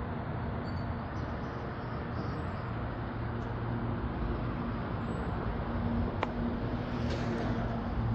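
Pressure washer running steadily: a constant engine drone with a hiss over it, and a single sharp click about six seconds in.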